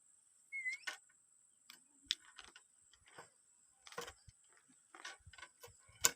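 A parrot's beak picking and biting at a cardboard cigarette pack: irregular light clicks and taps, with one short chirp about half a second in.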